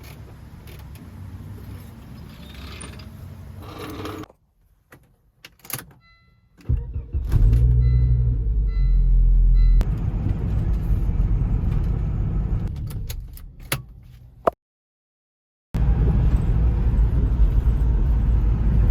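2000 Volvo V70 running and being driven, a loud low steady engine and road sound, heard in a few short clips cut together with sudden brief silences between them. A short beep repeats about four times, under a second apart, after the first break.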